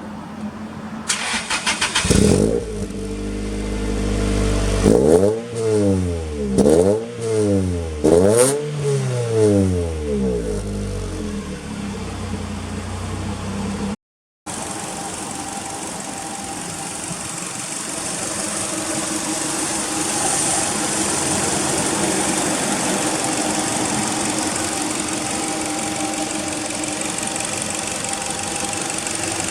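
Toyota Altezza RS200's 3S-GE inline-four, breathing through an aftermarket exhaust manifold and a 5ZIGEN muffler. The starter cranks and the engine catches about two seconds in, then there are three quick throttle blips. After a brief cut it idles steadily.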